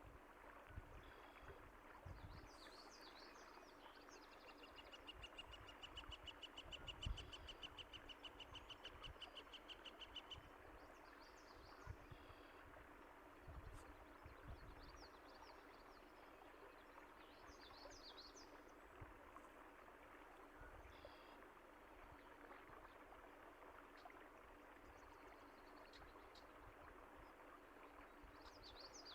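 Birds chirping over a faint, steady rush of flowing water, with one bird giving a rapid, even trill for about five seconds early in the stretch. A few soft low thuds occur now and then.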